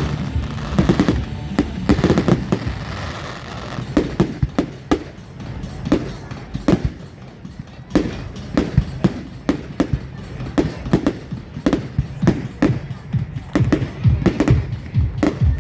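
Fireworks going off in a rapid, irregular series of sharp bangs and cracks, several a second, with music playing underneath.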